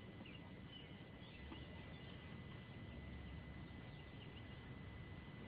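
Quiet room tone with faint, scattered bird chirps and a thin steady high tone.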